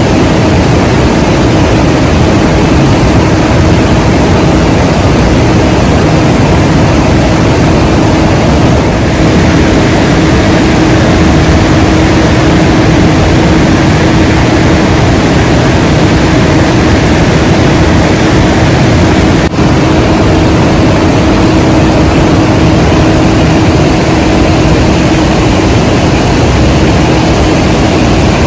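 Loud, steady roar of a 98-metre waterfall heard up close, a continuous rushing of falling water with a faint steady hum beneath it.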